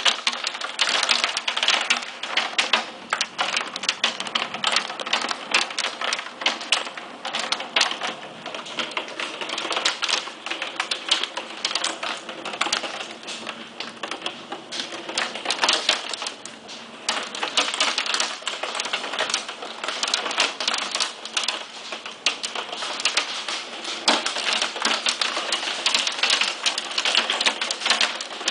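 Hail of 1–2 cm falling in a thunderstorm: a dense, irregular rattle of countless small stones striking hard surfaces, mixed with rain, growing heavier and lighter in waves.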